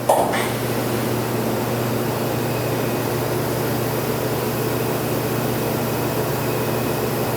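Feeler HV 800 vertical machining center running through a tool change or axis move: a short clatter right at the start, then a steady, even mechanical whir with a low hum.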